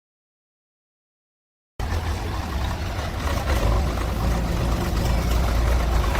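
Dead silence for nearly two seconds, then the sound cuts in abruptly on a heavy diesel engine running steadily, a deep low rumble.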